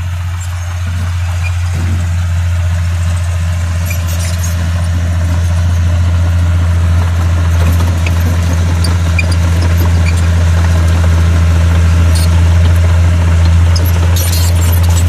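Bulldozer's diesel engine running steadily with a low hum, growing slightly louder, with a few short high clicks about four seconds in and again near the end.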